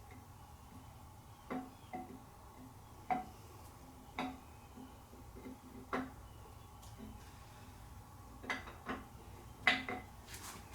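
Scattered sharp metallic clinks of hand tools and engine parts being handled and set down, about eight in all with pauses between, the loudest a little before the end, over a faint steady low hum.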